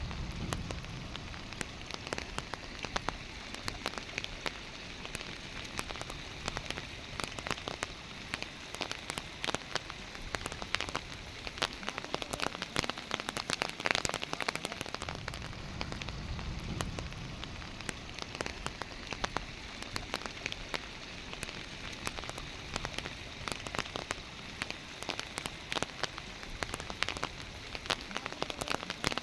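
Steady rain, a continuous hiss peppered with many sharp ticks of drops landing close by.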